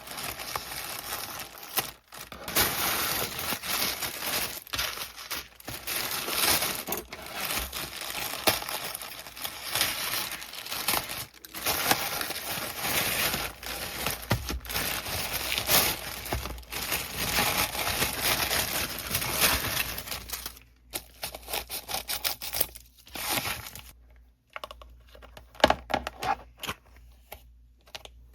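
Plastic packaging being crinkled and torn open: a dense, continuous rustling for most of the time, giving way near the end to a few separate clicks and taps.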